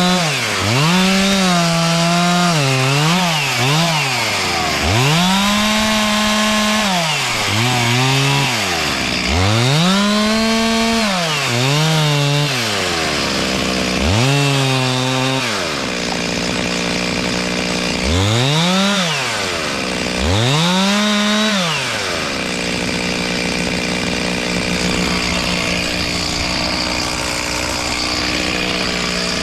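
Two-stroke chainsaw revved over and over, its engine note rising to full speed and falling back toward idle about eight times. About two-thirds of the way through it settles into a steady high-speed run.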